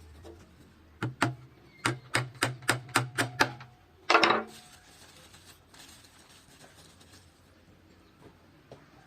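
A run of about nine quick, sharp knocks, roughly three a second, like hammer blows on wood, followed a little later by one louder, longer noise.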